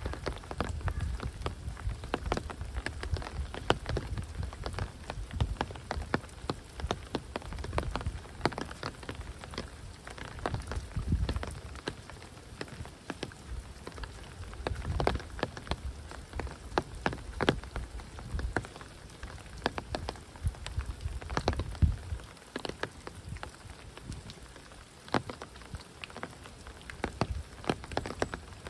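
Heavy rain pouring down: a dense steady patter with many sharp, irregular drop impacts and a low rumble that swells and fades.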